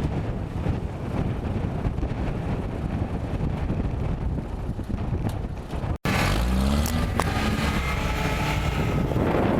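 Off-road vehicle engine running under wind noise on the microphone; after an abrupt cut about six seconds in, an engine revs, its pitch rising and falling.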